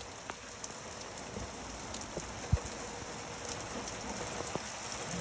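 Steady rain falling, with scattered drops ticking close by and one low thump about halfway through.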